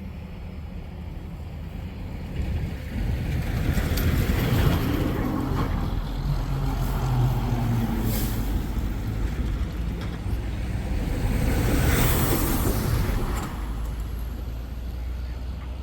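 Diesel engine of a heavy vehicle running and growing louder as it moves close, with short hissing bursts a few seconds apart.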